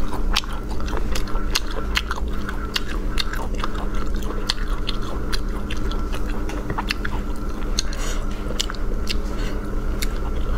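Close-miked chewing and biting of cold-marinated sea snail meat: a steady run of wet mouth clicks and smacks, several a second, over a faint steady hum.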